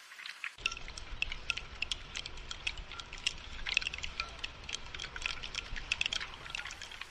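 Rain falling in separate, close-spaced drops that tick and patter on hard surfaces. About half a second in, a low steady rumbling noise joins beneath the drops.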